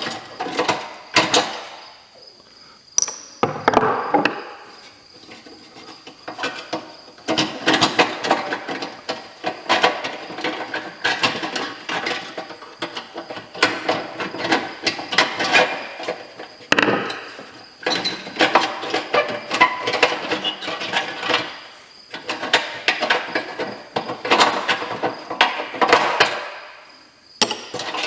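Hand tools working screws loose from a Suburban RV furnace's burner assembly: runs of fast ratcheting clicks and metal clinks in several bursts of a few seconds each, with short pauses between.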